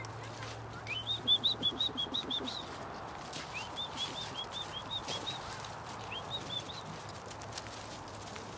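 A songbird singing: bouts of clear, evenly repeated chirps, each bout opening with a short rising note, about four to five chirps a second. Faint rustling of footsteps in leaf litter runs underneath.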